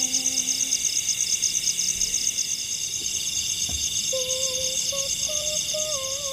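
Forest insects, crickets or cicadas, calling in a steady high chorus of rapid, even pulses over a constant high whine. About four seconds in, a wavering hummed tune comes in.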